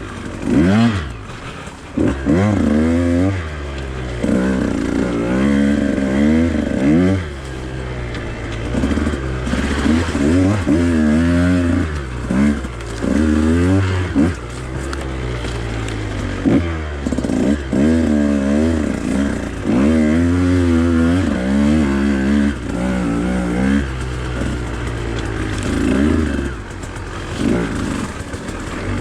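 Husqvarna TE 150 two-stroke dirt bike engine being ridden, its revs rising and falling over and over as the throttle is worked on and off.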